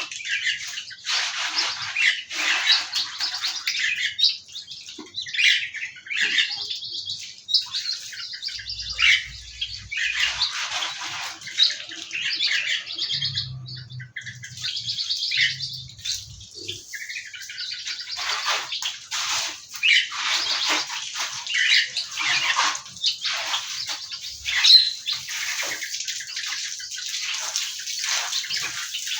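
A flock of small aviary birds chirping and calling nonstop, many short overlapping tweets with occasional louder squawks.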